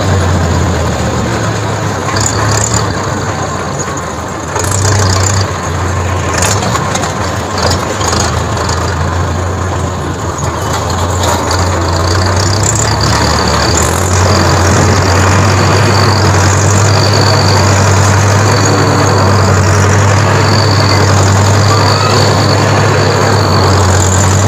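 Tractor engine running with a steady low drone that grows louder about halfway through. In the second half a short high chirp repeats every second or two.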